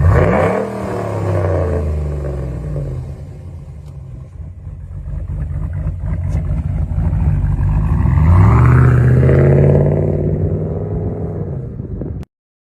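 5.7 HEMI V8 with an aftermarket BTR Truck Norris camshaft pulling away under throttle, its pitch rising and falling as it accelerates. The engine note eases off, then surges again with a rumble before the sound cuts off abruptly near the end.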